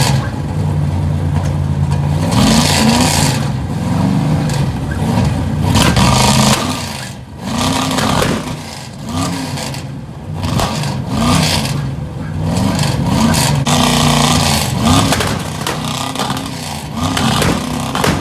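Loud car engine being revved over and over through its exhaust, the pitch climbing and dropping back in repeated blips about once a second.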